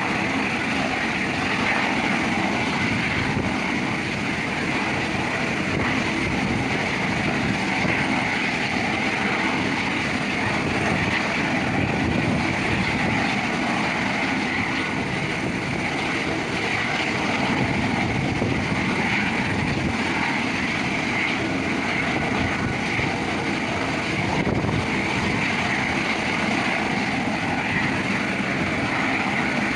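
Helicopter running steadily on a ship's deck before take-off: a constant turbine whine over rotor noise, with no change in pitch or level.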